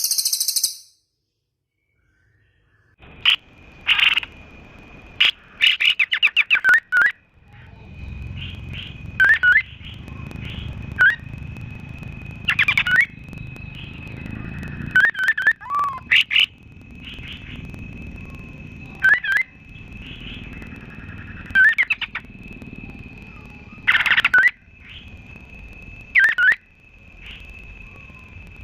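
Recorded songbird song: short sharp chirps and quick sweeping notes in bursts every second or two, over a steady high thin whistle. It starts after a brief silence about three seconds in, with a low rumble underneath.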